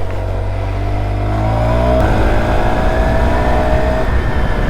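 Small motorcycle engine accelerating, its pitch rising for about two seconds, then a gear change and a steadier pull in the next gear.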